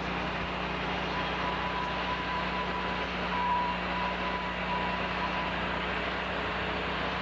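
Sawmill machinery running with a steady hum, with a faint thin whine that comes in about a second in and fades out a little after five seconds.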